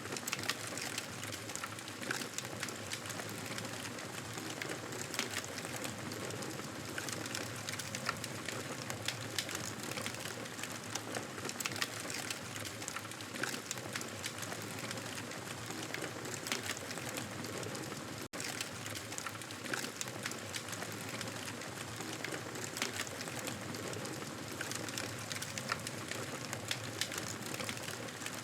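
Wood fire in a fireplace crackling: a steady hiss with frequent small, sharp pops and snaps. About 18 seconds in, the sound drops out for a split second.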